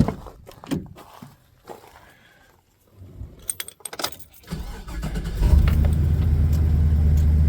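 Keys jingling and a few knocks, then the GMC Savana van's engine is started about four and a half seconds in and settles into a steady, loud idle.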